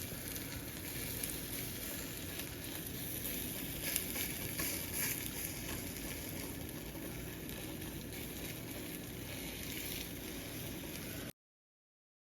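Egg omelet sizzling in a frying pan, a steady, even sizzle that cuts off suddenly about eleven seconds in.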